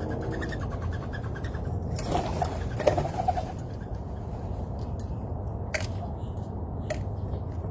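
Birds at a feeder giving a few short calls, with two sharp chirps near the end, over a steady low rumble.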